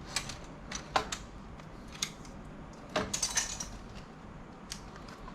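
Small clicks and taps from a laptop's parts and a tool being handled, with a short rattling clatter about three seconds in.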